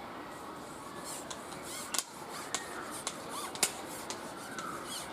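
A small crucian carp being handled and unhooked: rustling and wet flapping with a handful of sharp clicks, the loudest about two and three and a half seconds in.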